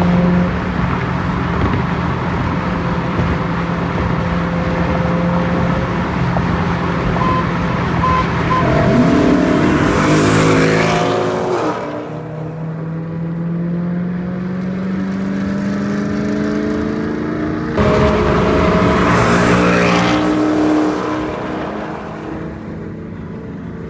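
Car engine running while driving, with the engine note rising as the car accelerates about nine seconds in; the sound changes abruptly twice, and two loud whooshing surges come around ten and nineteen seconds in.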